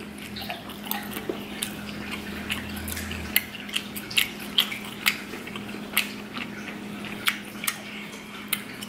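Close-miked chewing of cooked octopus tentacle: irregular sharp wet mouth clicks, about two a second, over a steady low hum.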